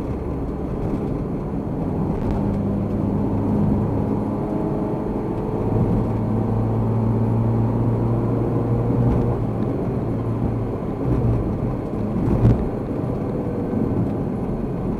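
A car driving, with steady engine and road rumble. A low drone of steady tones runs through the middle, and a single thump comes about twelve seconds in.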